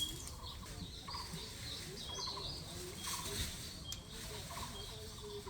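Wild birds calling: short rattling notes come back every second or so, with brief higher chirps between them.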